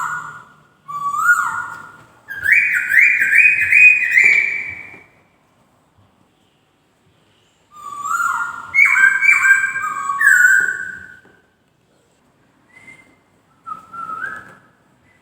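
Poksay (laughingthrush) singing in loud, clear, whistled phrases of rising slurred notes, including a fast run of repeated upslurs. There is a pause of a few seconds between the two main phrases, and softer short notes follow near the end.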